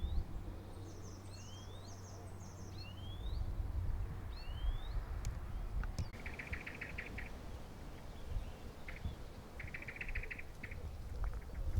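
Birds calling: a series of short rising chirps about once a second for the first few seconds, with a higher twittering, then two brief rapid trills in the second half. A low rumble runs underneath.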